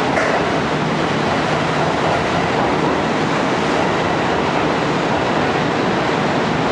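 Kintetsu electric trains running through an underground station: the steady rolling noise of a red limited express pulling out along the platform while the yellow Hakarukun track-inspection train draws in on the next track.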